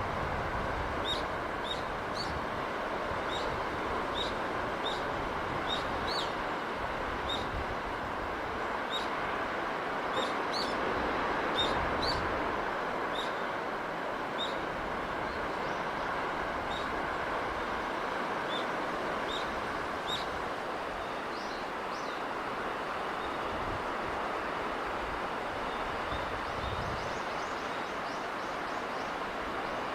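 Steady rushing sea-breeze and sea ambience, with a small bird chirping short high notes about once or twice a second for most of the time, and a faint quick run of chirps near the end.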